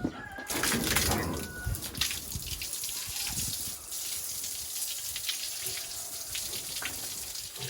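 Running water, a steady rushing hiss with scattered small knocks.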